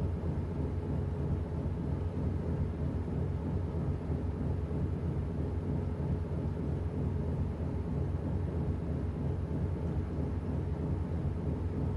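Washing machine running: a steady low hum from its motor and drum that holds even throughout, with no breaks.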